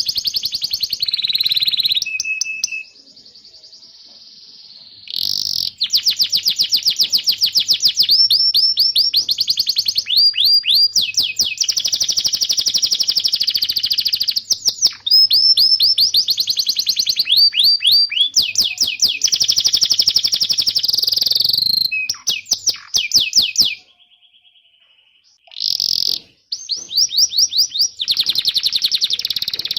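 Domestic canary singing: long, fast trills of high chirping notes, phrase after phrase, broken by two short pauses.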